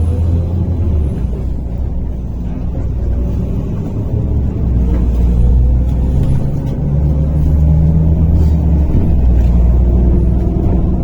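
MAZ-103.485 city bus heard from inside the cabin while driving: a heavy low engine rumble that dips briefly several times, with a faint whine slowly rising in pitch as the bus gathers speed.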